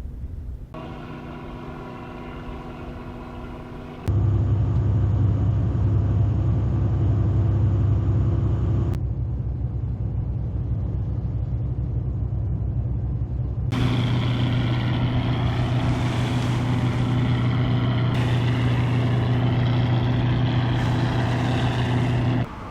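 Ships' engines running with a steady low drone, across several edited clips: the drone jumps louder about four seconds in and changes pitch and level at each cut.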